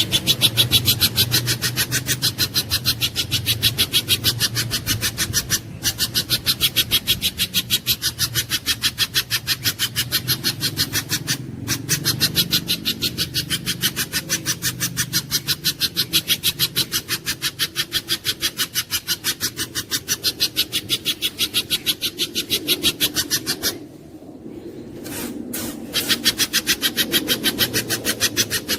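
Pijantung gunung (a spiderhunter) calling in a fast, even string of sharp high notes, several a second, broken by two brief gaps and a longer pause near the end, over a steady low hum.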